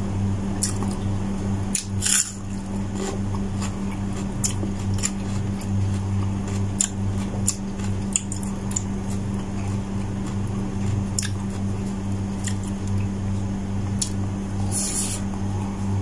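Close-up eating sounds: a man chewing, with irregular wet clicks and smacks, and his fingers squishing rice on a plate. A steady low hum runs underneath.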